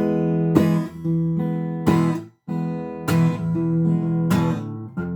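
Acoustic guitar playing an E major chord, first picked and then strummed with the fingernails across the lower three strings, with a strum roughly every second and a quarter.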